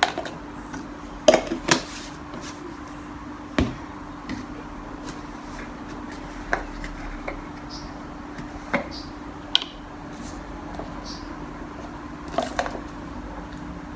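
Scattered sharp knocks and clicks of household objects being handled and set down, about eight in all, over a steady low hum.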